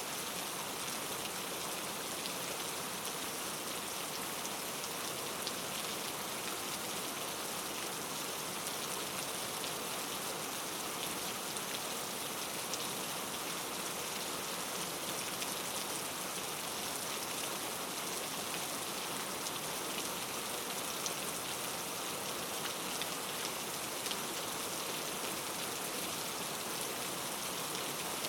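Steady rain falling on a surface, an even hiss thick with tiny drop impacts.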